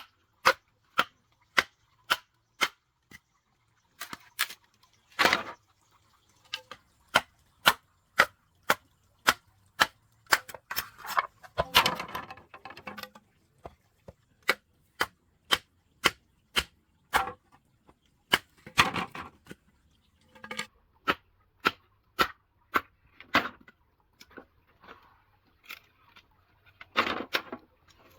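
Repeated blows of a hand tool on bamboo: sharp knocks at a steady pace of about two a second, with a few short pauses. Four times a longer, rougher sound breaks in among the knocks.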